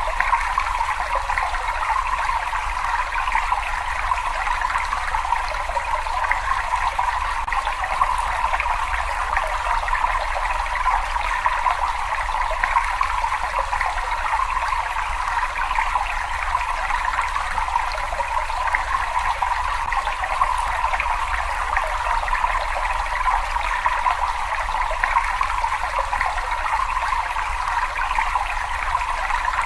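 Water running and trickling in a cave: a steady, unbroken rush of water with a low rumble underneath.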